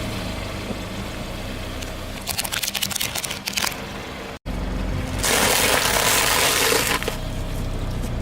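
Car engine running low and steady while a tyre rolls over objects, with a run of sharp crackling crunches. After a cut comes a louder, rushing crush lasting about two seconds.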